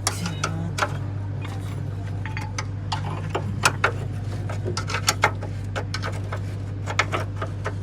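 Irregular metallic clinks and taps of hand tools on steel car parts, as a spanner works on suspension bolts, over a steady low hum.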